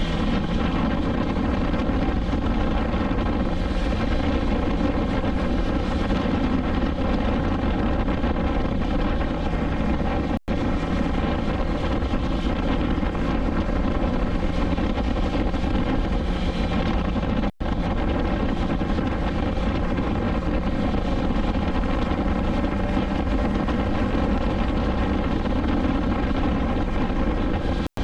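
BMW S1000XR's inline-four engine running at a steady pitch while cruising, cutting out for an instant twice.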